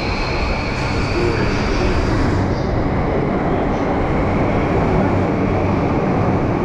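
Yamanote Line commuter train running alongside the platform: a steady loud rumble of wheels and car bodies. A faint high whine rises slightly, then fades about two seconds in.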